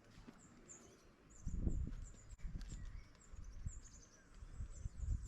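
Small birds giving thin, very high chirps in quick repeated series, each note slurring downward. From about a second and a half in, a low rumble rises and falls unevenly and is louder than the birds.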